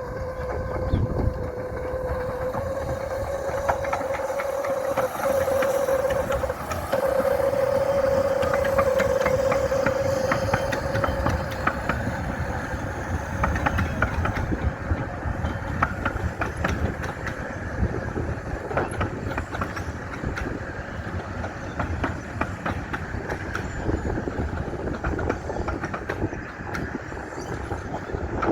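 Romney, Hythe & Dymchurch Railway miniature train running on its track, with a steady stream of clicks from the wheels and rails. A steady high tone sounds through roughly the first twelve seconds, then fades.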